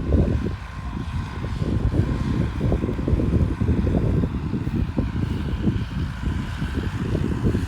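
Massey Ferguson 274S tractor running steadily under load, driving a PZ drum mower: a rough, continuous low rumble with a faint steady whine above it.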